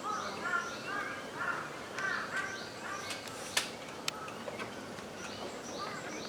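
Wild birds calling and singing: many short, repeated chirping phrases from several birds overlapping throughout, with a couple of sharp clicks about three and a half seconds in.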